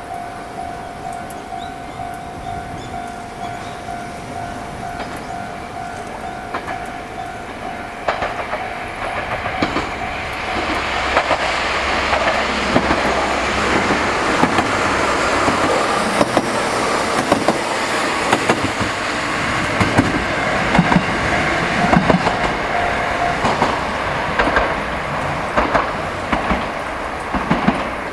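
A train approaching and running past, its wheels clicking over the rail joints in quick irregular groups as it goes by. A steady high tone sounds for the first eight seconds or so, then fades as the train noise builds.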